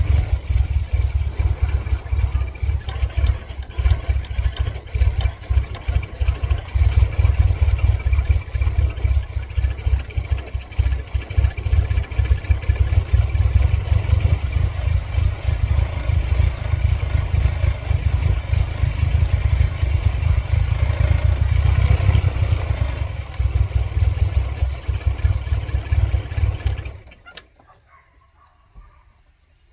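The supercharged four-cylinder engine of a 1999 Mercedes-Benz C230 Kompressor runs with a choppy, uneven level, then cuts off suddenly about 27 seconds in. The engine has a fault that flashes the check engine light and has made it stall.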